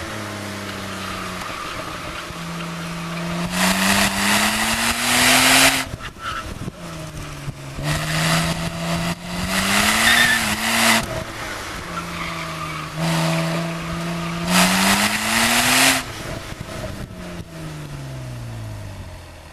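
BMW Z4 3.0si's inline-six engine pulling hard through an autocross course, climbing in pitch three times with steady stretches between, then falling as the car slows near the end. Three loud bursts of tyre noise ride over the climbs.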